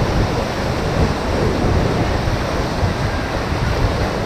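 Rushing river whitewater, a steady loud noise, with wind buffeting the microphone.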